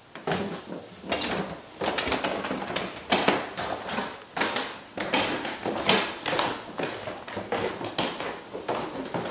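Footsteps going down a flight of indoor stairs, a scuffing thud about every half second to second.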